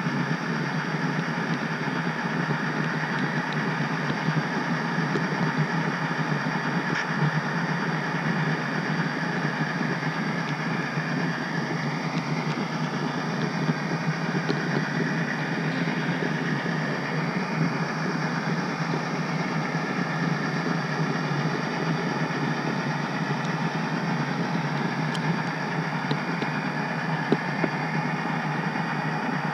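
HO scale model train rolling along the track, heard from the caboose: a steady running noise with a few small clicks.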